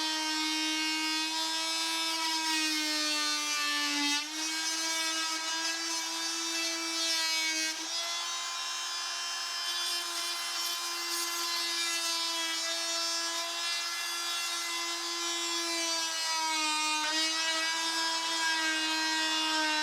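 Electric circular saw running and cutting through the wooden stair tread: a steady motor whine that dips briefly in pitch about 4, 8 and 17 seconds in as the blade takes load.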